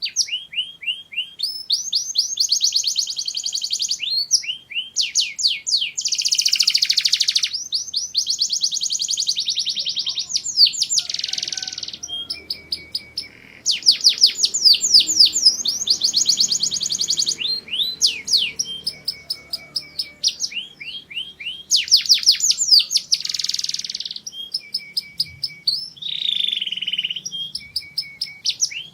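Canary singing: long phrases of rapidly repeated high notes and trills, each phrase held for a second or two before switching to another, with buzzy rolls in between.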